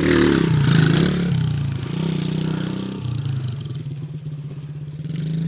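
Dirt bike engine running, its note dropping about halfway through and rising again near the end, with a scraping rush in the first second or so.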